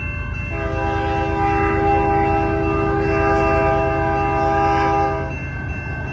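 Union Pacific freight locomotive's multi-note air horn sounding one long blast of about five seconds, over the steady low rumble of the diesel locomotives working the train up a steep grade.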